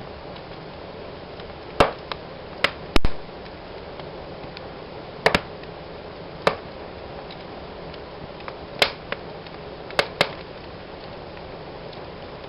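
Wood fire in a fireplace burning with a steady hiss and crackle, broken by about nine sharp pops at irregular intervals, the loudest a double pop about three seconds in.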